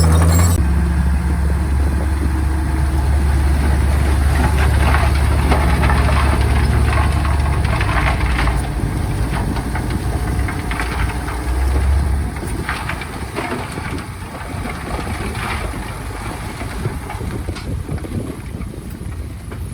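Bulldozer's diesel engine running with a steady low hum and scattered clanks and rattles. It eases off after about eight seconds, swells briefly near twelve seconds, then runs quieter.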